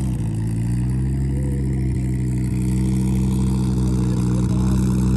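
A car engine running at a steady, unchanging speed, its low, even note holding throughout.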